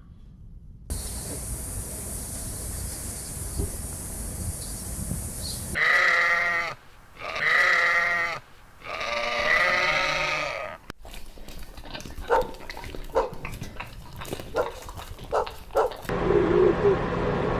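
Goat bleating three times, each call lasting about a second, followed by a run of short, sharp clicks and brief calls.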